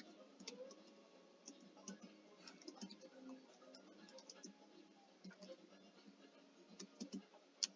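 Faint computer keyboard typing: scattered key clicks, with a quicker run of clicks near the end.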